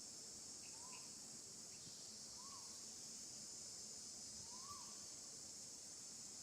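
Steady, high-pitched chirring of an insect chorus. Three short, faint calls that rise and fall sound over it, about a second, two and a half seconds and nearly five seconds in.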